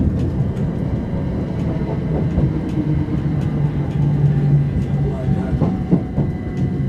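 Cabin noise inside a Class 387 Electrostar electric train running on the line: a steady low rumble with a held low hum in the middle and faint clicks from the track.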